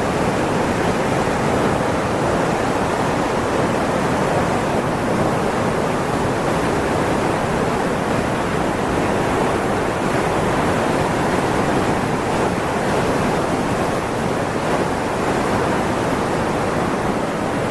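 Loud, steady rushing of water with no pitch or rhythm.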